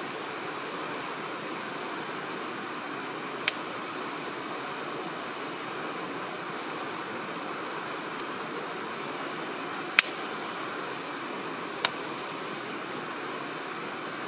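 Wood fire burning in a firewood grill: a steady hiss with a few sharp crackling pops, the loudest about three and a half seconds in and again around ten seconds, and a quick double pop near twelve seconds.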